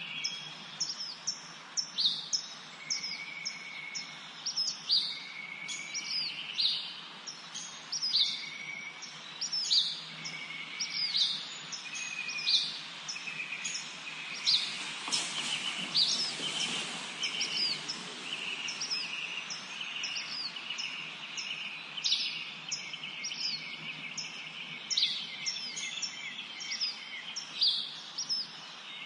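Forest birds singing: a dense run of short, high, quickly falling chirps repeating throughout, with a few brief steady whistled notes in the first third. A soft rushing noise rises and fades about halfway through.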